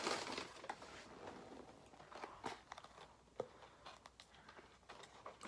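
Faint, scattered clicks and crinkles of a fast-food burger and its wrapper being handled close to the microphone, with a few sharper clicks in the middle.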